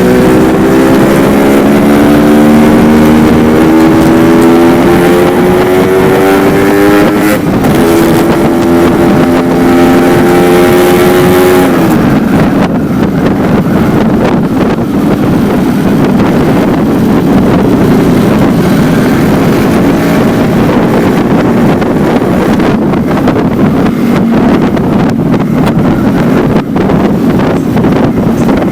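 Yamaha RX-King two-stroke single-cylinder motorcycle with a stock silencer, accelerating hard. The engine's pitch climbs, drops at a gear change about seven seconds in, and climbs again. Around twelve seconds in the throttle closes and the engine falls back under heavy wind noise on the microphone.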